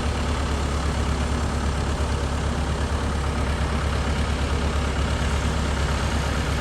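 Mini excavator's diesel engine running steadily, with a strong low hum.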